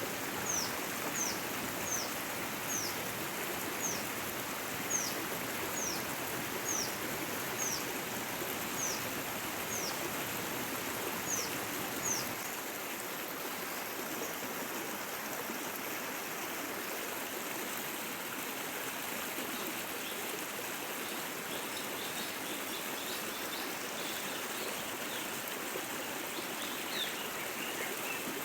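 A stream rushing steadily. Over it a bird repeats a short, high, falling call about every 0.7 seconds for the first twelve seconds or so, and fainter bird chirps come near the end.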